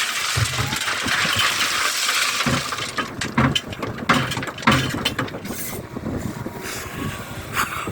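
A digger (excavator) running on a building site, with a hiss in the first few seconds, then a run of knocks and metallic clanks.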